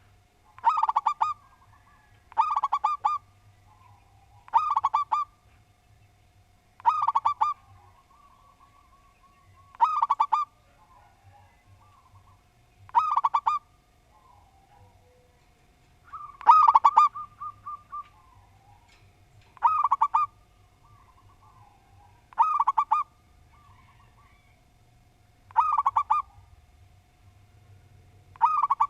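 Zebra dove (perkutut) cooing: a short phrase of quick coo notes, repeated eleven times at intervals of two to three seconds.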